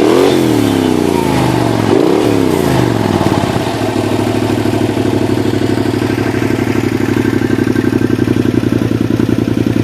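Aprilia SRV 850's V-twin through an Arrow exhaust with the dB-killer removed, revved twice and falling back, then settling to a steady, pulsing idle from about three and a half seconds in.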